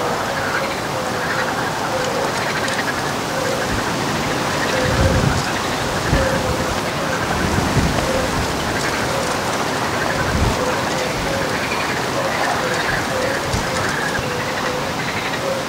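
Ducks quacking, with a short call repeating about twice a second over a steady hiss like rain or water. There are a few low thumps in the middle.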